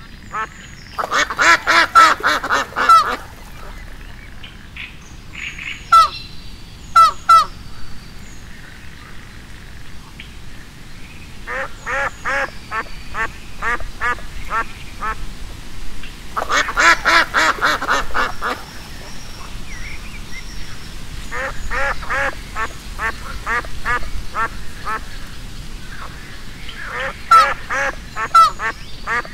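Ducks quacking in repeated bouts of quick quacks, with short quieter pauses between.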